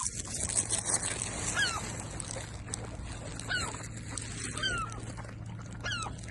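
Short animal calls, each a quick falling glide, repeated every second or so over a steady low hum.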